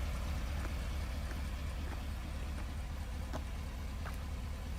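Steady low rumble of a pickup truck's engine idling, with a few faint clicks.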